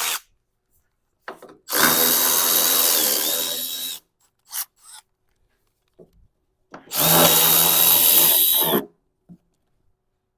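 Power drill running in two bursts of about two seconds each, with a steady high whine that dips briefly partway through the first burst. A few small clicks and knocks of tools come between the bursts.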